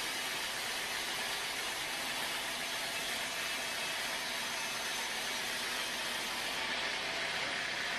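Sawmill machinery running steadily: an engine-driven saw giving a constant hissing drone with no breaks.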